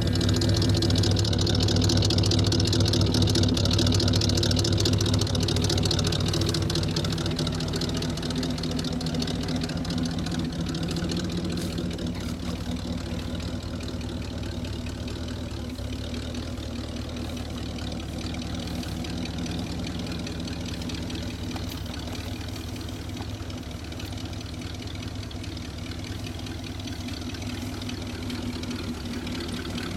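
A 1979 Dodge Li'l Red Express truck's 360 V8 idles steadily. It is louder for the first several seconds, then eases down to a quieter, even idle.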